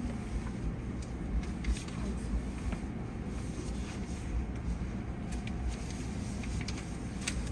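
Hankyu 1300 series electric train running, a steady low rumble with a few sharp clicks.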